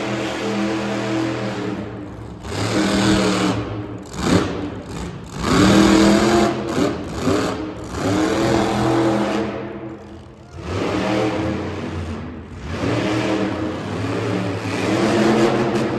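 Monster truck engine revving hard in repeated surges, its pitch climbing and falling with the throttle; it drops away briefly about ten seconds in, then picks up again.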